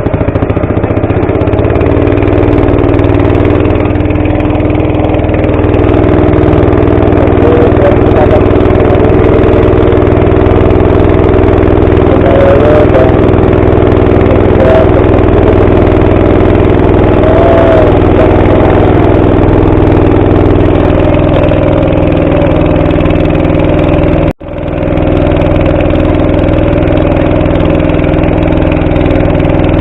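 A small boat's engine running steadily at close range, an even motor hum that drops out for a split second about three-quarters of the way through.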